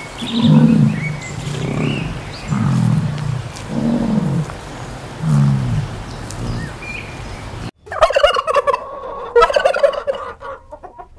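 American bison giving low grunting calls, about five of them a second or so apart, with faint bird chirps above. About eight seconds in, a domestic turkey gobbles in two rapid rattling bursts.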